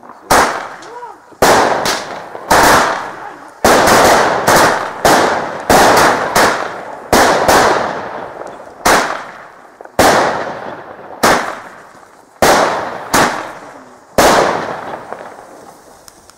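A string of loud firecracker and firework bangs: about twenty sharp reports at uneven intervals, bunched closest between about 3.5 and 7 seconds in. Each bang trails off in an echo.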